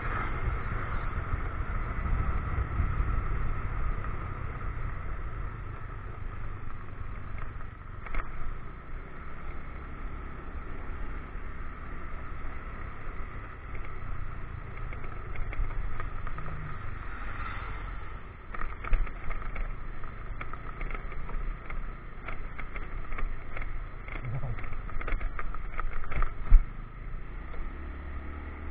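Motorcycle engine running with road and wind noise. In the second half come a string of knocks and rattles, the sharpest about 26 seconds in, as the bike rides over rough, broken road.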